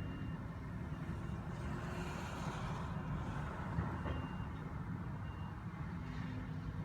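Diesel excavator working at a demolition site, its engine giving a steady low rumble, with a louder rush of noise around two seconds in. A backup alarm beeps a few times, short high beeps.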